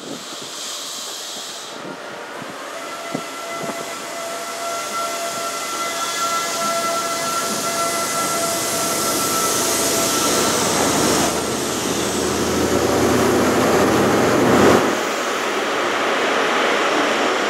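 InterCity 125 (Class 43 power cars) pulling out and gathering speed, a whine over a rising rumble that grows steadily louder, peaks about fifteen seconds in as a power car passes close, then falls away a little.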